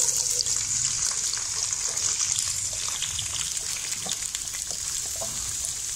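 Sliced onions, green chillies, garlic and ginger sizzling in hot oil in a karahi: a hiss that starts suddenly as they go into the oil and then holds steady, with scattered small crackles.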